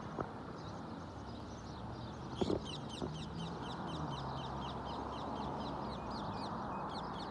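Birds chirping in a fast, even run of short high chirps, starting about two and a half seconds in, over a steady rushing noise, with a brief knock just as the chirping begins.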